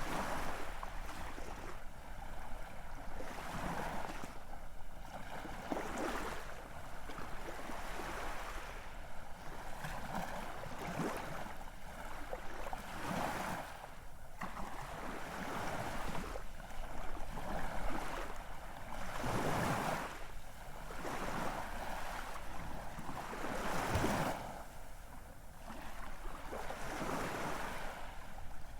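Ocean surf: waves washing in and drawing back, the rush of water swelling and easing every few seconds.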